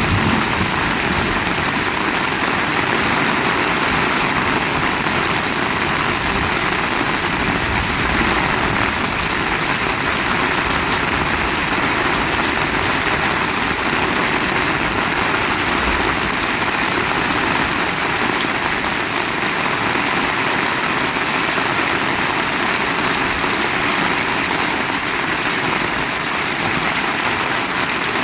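Heavy rain falling steadily, a dense even hiss with a low rumble beneath it.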